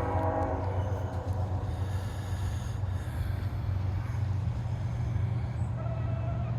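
The last of a freight train's locomotive horn chord, dying away under a second in, then the steady low rumble of the approaching diesel locomotives.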